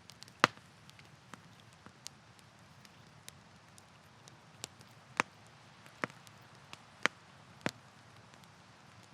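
Campfire crackling: irregular sharp pops and snaps over a faint steady hiss. The loudest pop comes about half a second in, and several more cluster in the second half.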